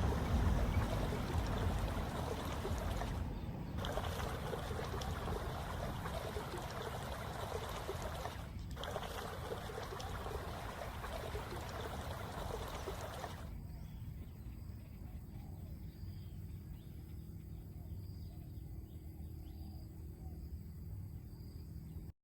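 Floodwater rushing and pouring, slowly fading. About halfway through, the higher splashing part drops away sharply, leaving a low rumble that stops abruptly at the very end.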